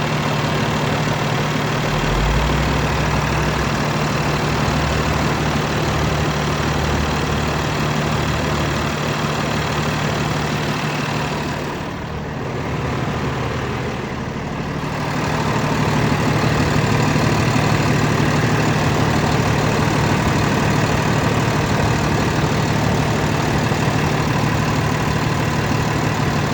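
2014 Freightliner sanitation truck's diesel engine idling steadily. The sound briefly dips and turns duller about halfway through.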